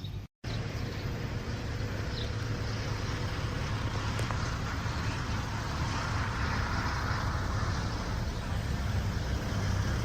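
Steady outdoor background noise: a low rumble under an even hiss that swells a little around the middle. The sound cuts out completely for a moment just after the start.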